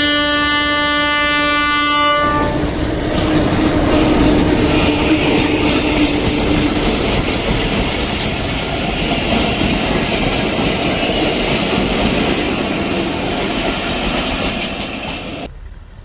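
Bangladesh Railway locomotive horn sounding a steady chord, stopping about two seconds in, as the train passes close with a loud rumble and wheels clattering over the rail joints. The sound cuts off sharply near the end.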